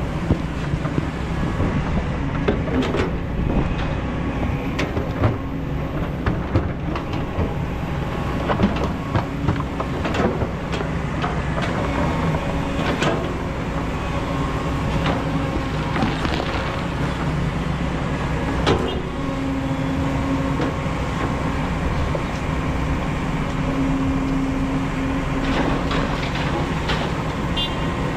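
Kobelco excavator's engine and hydraulics running steadily while digging sand, with a steady hum and scattered knocks and clanks throughout.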